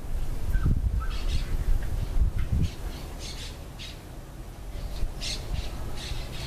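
Birds calling: short calls repeated irregularly, over a low, uneven rumble.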